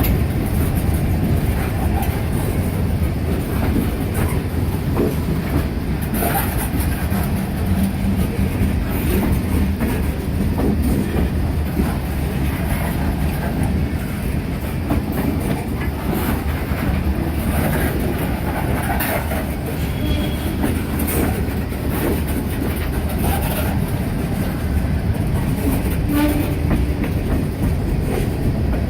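Slow CSX manifest freight train rolling past, its cars clattering and rumbling over the rail joints with scattered clicks and knocks, and a faint wheel squeal now and then.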